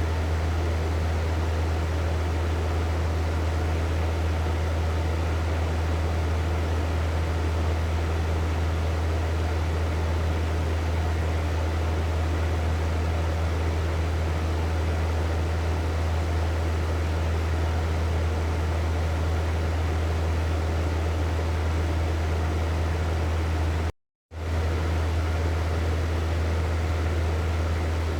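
Hair dryer running steadily: an even rush of air over a low motor hum. It cuts out completely for a split second a few seconds before the end.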